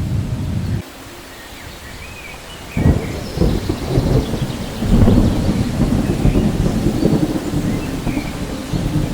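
Thunderstorm with rain: the low rumble drops off abruptly about a second in. Nearly two seconds later a sudden thunderclap breaks in, followed by long, rolling thunder over the steady rain.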